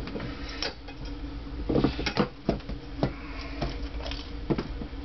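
Scattered metallic clicks and clinks of valve parts being handled while the valves are taken out of a Honda CX500 cylinder head, the strongest clatter about two seconds in. A steady low hum runs underneath.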